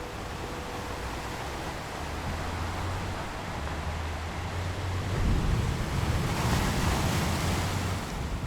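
Sea waves surging against the waterfront at high tide in strong wind, with wind rumbling on the microphone. A larger wave breaks about five seconds in, the loudest moment, and its hissing wash runs on until near the end.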